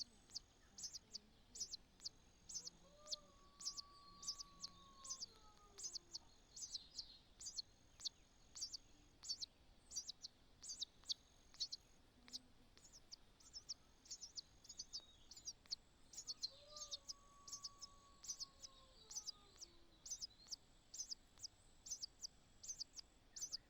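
A bird's high, sharp chirps repeated rapidly and without a break, about three a second. Twice, a longer, lower whistle glides and falls beneath them, once a few seconds in and once past halfway.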